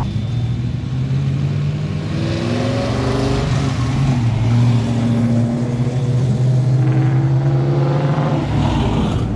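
Car engine running with a deep, steady low note, revving so the pitch rises a couple of times in the middle; near the end a car drives past.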